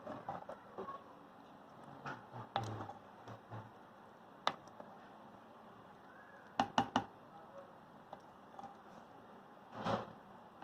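Scattered clicks and knocks of kitchen utensils and cookware being handled, with a quick run of three sharp clicks about two-thirds of the way through.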